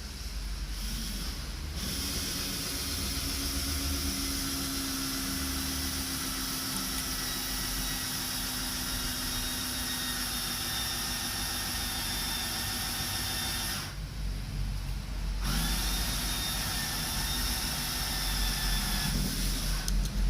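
Handheld electric power tool running steadily with a whine. It stops about two-thirds of the way in and starts again a second and a half later for a few more seconds.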